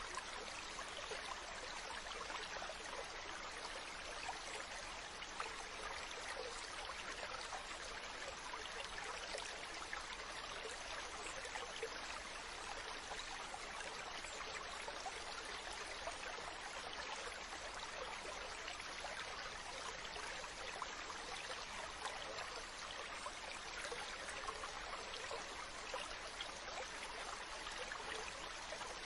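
Mountain stream running over rocks: a steady rush of water with a fine splashing, trickling texture.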